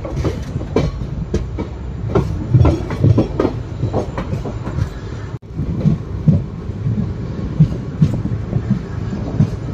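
Moving passenger train coach: steady low rumble with irregular wheel clatter over the rail joints, clickety-clack. The sound drops out for an instant a little past halfway.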